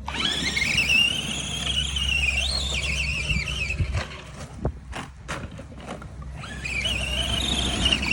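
RC truck's electric motor whining high under load, its pitch rising at the start and then wavering, carrying 5 pounds of extra weight: the motor is straining, without enough torque for the load. The whine drops out for about two seconds, with a few sharp clicks, and comes back near the end.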